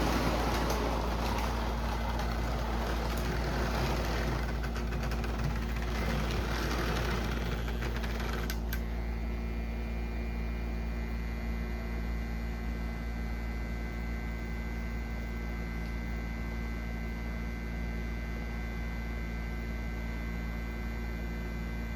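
O gauge model train running on three-rail track, its rolling rumble fading over the first eight seconds, then a sharp click about eight and a half seconds in. After the click only a steady low electrical hum remains.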